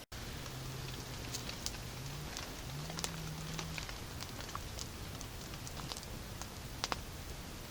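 Steady rain noise with scattered sharp ticks and crackles. A low droning hum rises and falls twice in the first few seconds.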